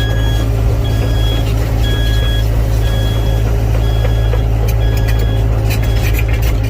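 Diesel engine of a heavy construction vehicle running steadily, with its reverse/travel alarm beeping about once a second.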